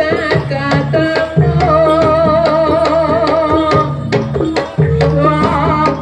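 Javanese jaranan music: hand-drum (kendang) strokes driving a steady beat under gamelan-style instruments, with a wavering melody line held for a couple of seconds mid-way.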